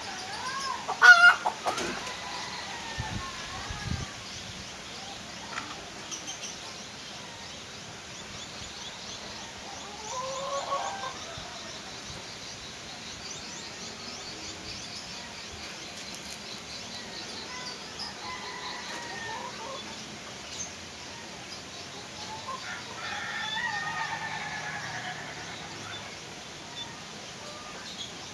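Hill myna mimicking a chicken: a loud cluck-and-crow-like call about a second in, then scattered further clucking calls, including a longer run near the end.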